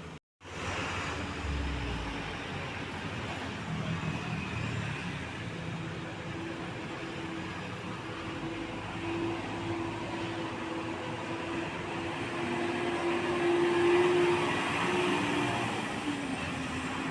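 Heavy Mitsubishi Fuso trucks driving past with engine and road noise. One engine note climbs and grows louder, peaking about fourteen seconds in, then eases off.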